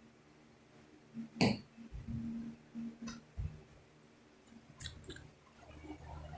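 A few scattered sharp clicks and knocks with short low thumps, like handling noise. No vacuum motor is running.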